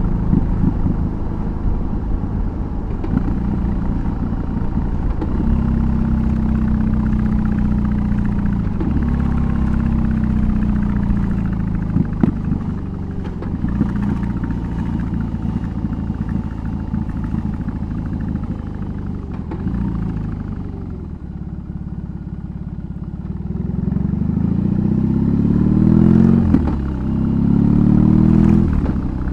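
BMW R18's big boxer twin running under way. About two-thirds through it slows and runs quieter for a few seconds, then pulls hard again, the pitch climbing, dropping back and climbing a second time near the end, as when it is accelerating through the gears.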